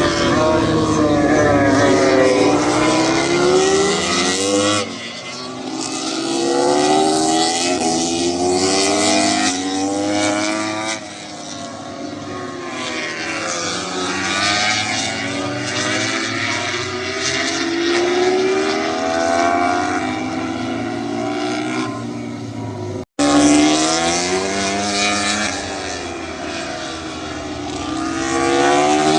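Several MotoGP prototype racing motorcycles passing through a corner, engines overlapping as their pitch falls on braking and downshifting and then rises hard on acceleration. The passes repeat one after another, with a short break in the sound about three-quarters of the way through.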